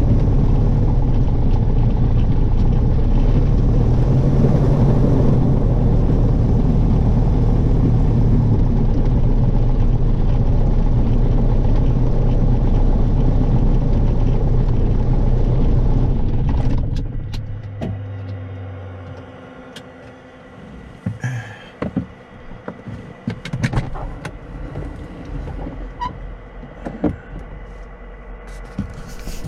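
Light aircraft's piston engine running steadily, then shut down about 16 seconds in and winding down over a few seconds. After that come scattered clicks and knocks.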